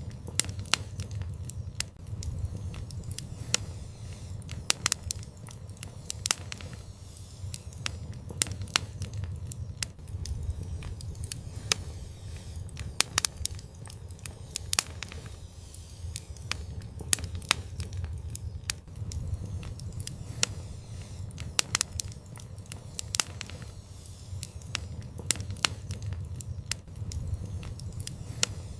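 Fire burning in an outdoor fireplace, crackling with frequent irregular sharp pops over a low, steady rumble of the flames.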